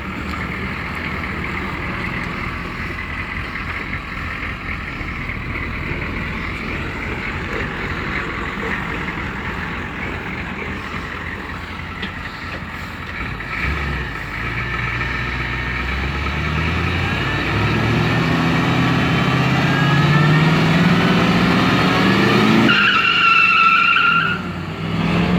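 1989 Chevrolet pickup's 6.2 L V8 diesel engine running hard during a burnout, its rear tyres spinning and squealing. The revs climb and the sound grows louder over the second half, with a loud, wavering tyre squeal near the end before the revs drop.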